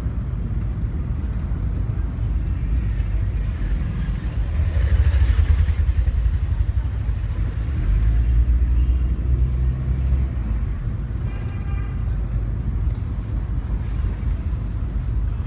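Car being driven on the road: a steady low rumble of engine and road noise that grows louder twice, briefly about five seconds in and again for a couple of seconds in the second half.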